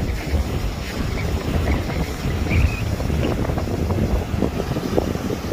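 Strong gusty wind buffeting the microphone, a heavy low rumble that swells and eases.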